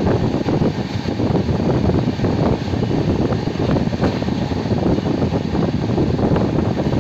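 Steady running rumble of a moving express passenger train, wheels on rail, mixed with wind rushing past the microphone at an open side of the coach.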